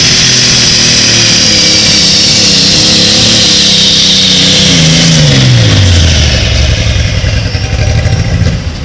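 Pulling vehicle's engine running loud at high revs, then the revs fall away over about a second, roughly five seconds in, and it carries on at a lower pitch.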